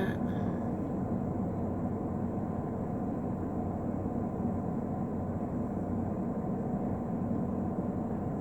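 Steady low hum inside a parked car's cabin, with the engine idling.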